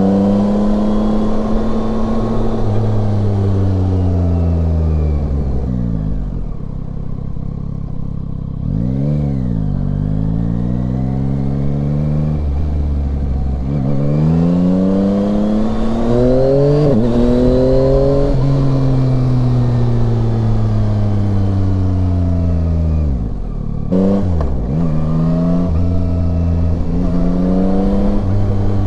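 Yamaha Tracer 9's three-cylinder engine running on the road, revs rising and falling as the bike accelerates and slows. The pitch drops and climbs quickly about nine seconds in, rises through a gear change around seventeen seconds, and dips sharply with another gear change near twenty-four seconds.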